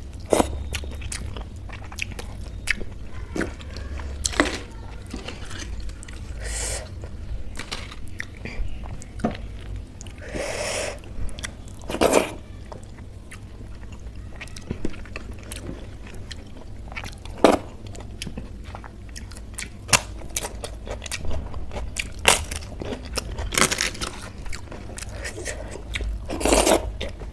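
Close-miked mouth sounds of a person eating by hand, biting and chewing mouthfuls of kadhi-soaked rice and pakora. There are irregular sharp mouth clicks and a few louder, longer chewing noises about halfway through and near the end.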